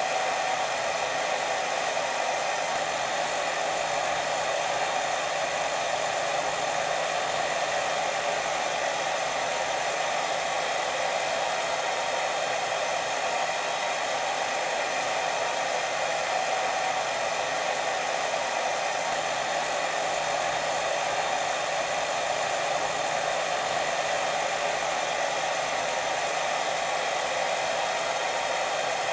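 Steady white noise for sleep: an even, unbroken hiss strongest in the middle range, with no rises, pauses or pulses.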